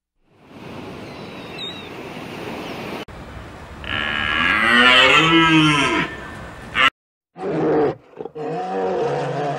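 Long, low, lowing calls from a large mammal. The first and loudest runs from about four to six seconds in, and a second, shorter and broken call comes near the end. Before them there is a steady hiss with a single short high chirp.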